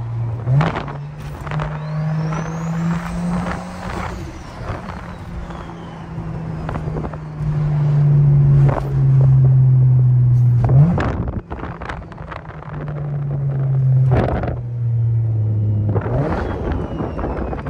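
Car engine running steadily at light load, its note stepping sharply up in pitch three times, with a few short sharp sounds between.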